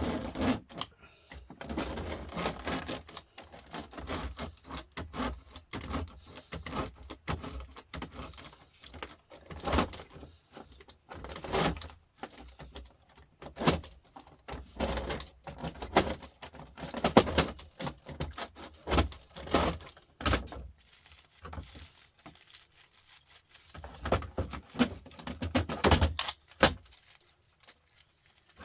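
Thin aluminium fins being torn and pulled off a radiator's copper tubes: irregular metallic clicking, scraping and crinkling, with a few louder snaps.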